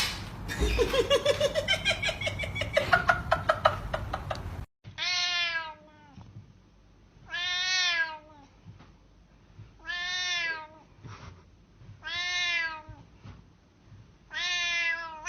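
A cat meowing five times at an even pace, each meow under a second long and rising then falling in pitch, about two and a half seconds apart. Before the meows, a few seconds of rapid ticking with a slowly rising tone, which cuts off suddenly.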